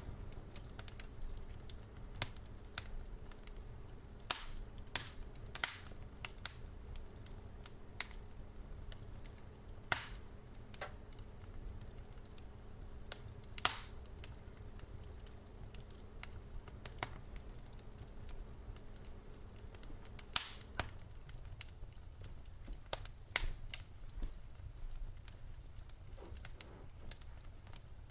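Wood fire crackling and popping in a fireplace: irregular sharp pops, some louder than others, over a steady low rumble of the flames. A faint steady hum underneath stops about two-thirds of the way through.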